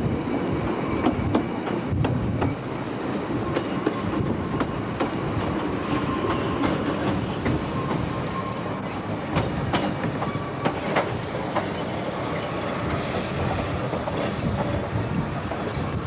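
Narrow-gauge Ffestiniog Railway train running, heard from on board: a steady rumble of the carriages with sharp clicks of the wheels over rail joints, and a faint wheel squeal as it takes the curves into the station.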